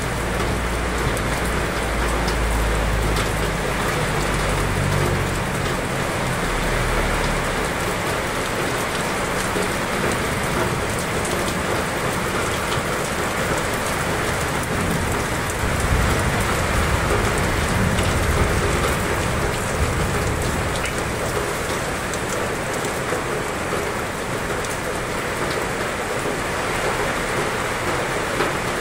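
Heavy rain pouring down steadily. A low rumble sits under it through the first several seconds and again a little past halfway.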